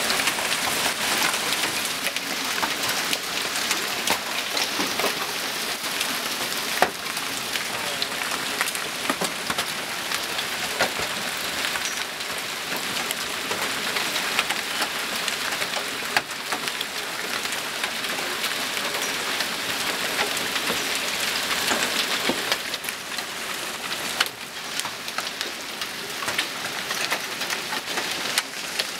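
Hail pelting down in a steady dense hiss. Individual hailstones crack sharply against hard surfaces now and then.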